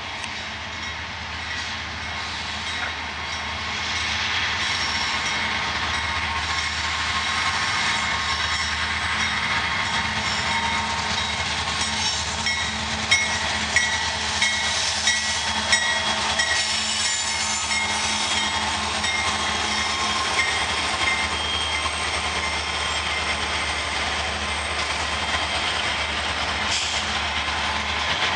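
Diesel-hauled Canadian Pacific freight train (GE AC4400CW and EMD SD60 locomotives) passing close by: a low diesel hum under a steady rumble of wheels on rail. It grows louder about four seconds in, with a run of sharp wheel clicks over the rail joints near the middle.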